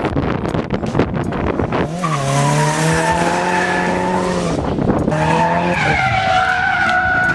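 A drift car's engine held at high revs as the car slides. About two seconds of rapid crackling come first, then a steady, strained engine note that breaks briefly and picks up again. A high whine, typical of tyre squeal, glides slowly down near the end.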